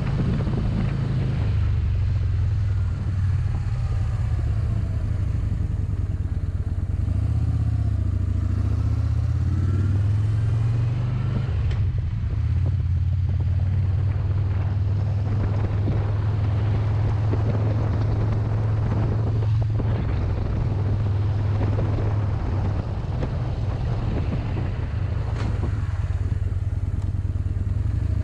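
Motorcycle engine running steadily while riding, with its pitch rising and falling a few times in the first ten seconds.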